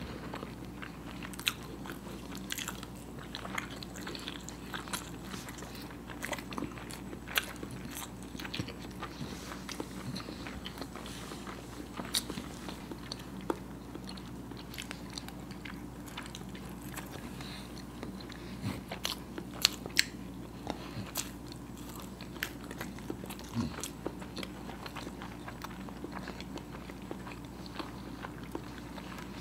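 Close-miked eating of peeled hard-boiled eggs: biting and chewing with wet mouth sounds and irregular sharp clicks, over a steady low hum.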